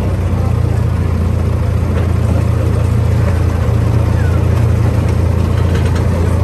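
Miniature amusement-park train running steadily along its track, a loud, even low drone of its engine and running gear.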